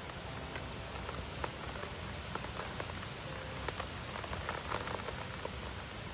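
Steady rain falling, with scattered sharp pops and crackles from a wood campfire.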